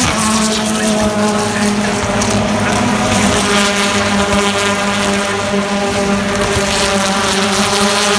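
BTCC touring cars' two-litre turbocharged four-cylinder engines running hard at near-steady revs as a group of cars races past, with wind noise on the microphone.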